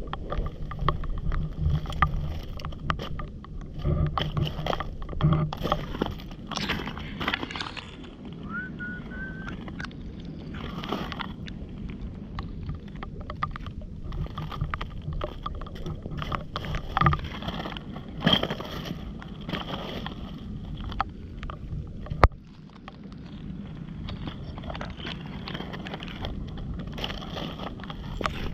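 Irregular crunches, clicks and scrapes of stones and debris being turned over on a wet, muddy foreshore, over a rough low rumble, with one sharp click a little after twenty seconds.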